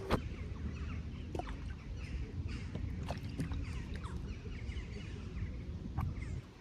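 Outdoor ambience with a steady low wind noise on the microphone and birds calling now and then, short scattered calls. A sharp click comes right at the start.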